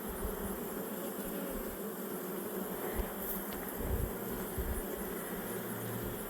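Honeybees buzzing steadily around an open hive while its frames are being inspected, with a few low bumps about three to four seconds in and near the end.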